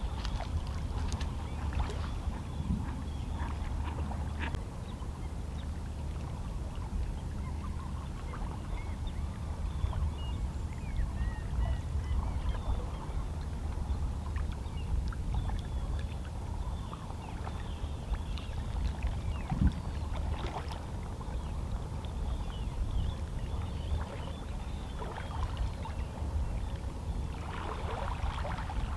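Calm sea with small waves lapping and splashing against shoreline rocks, a steady wash over a constant low rumble. Faint seabird calls sound now and then in the distance.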